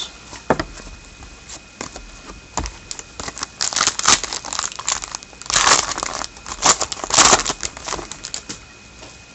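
A trading card pack's wrapper being torn open and crinkled by hand, in several bursts of crackling.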